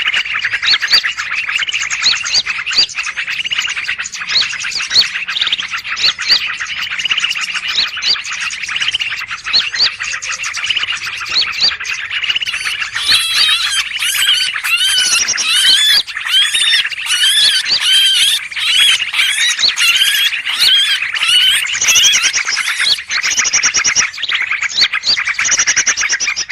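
Dense, continuous chattering and chirping of many small birds calling at once, a noisy-flock lure recording used to trap birds. From about halfway through, higher, sharper chirps join in.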